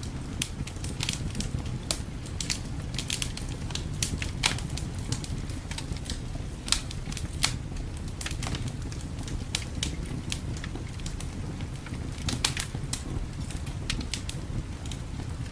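Wood fire crackling, with irregular sharp pops and snaps, some louder than others, over a steady low rumble.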